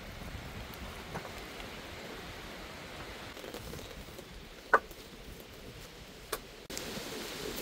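Steady rain falling during a storm, with one sharp tap about two-thirds of the way in and a fainter one shortly after.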